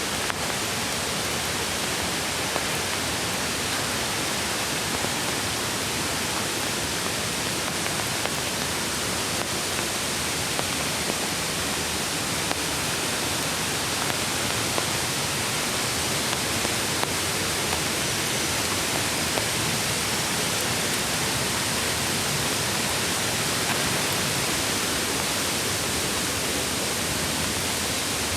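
Steady rushing of a mountain creek's water, an even hiss with a few faint ticks scattered through it.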